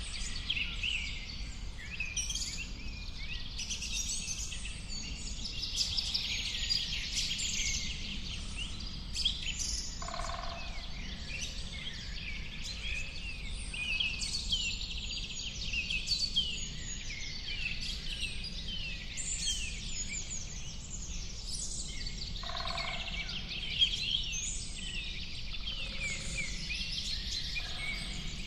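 A dense chorus of many small birds chirping and twittering without a break, over a steady low background noise.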